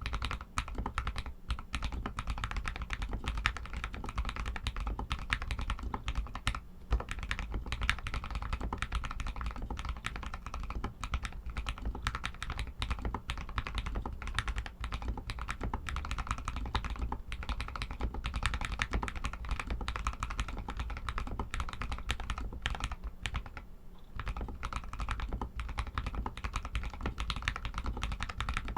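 Continuous fast typing on an RK61 mechanical keyboard with Outemu Red linear switches, a dense stream of key presses with a brief lull near the end.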